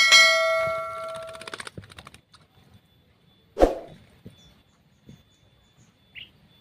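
A metallic clang that rings out with several clear tones, fading over about a second and a half. A single short, harsh sound follows about halfway through, with a few faint clicks.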